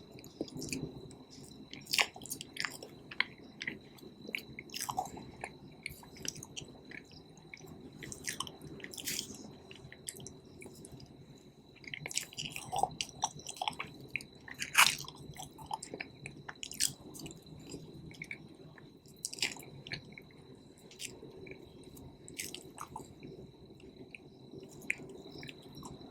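A person chewing cake close to the microphone: irregular wet mouth clicks and smacks over soft chewing.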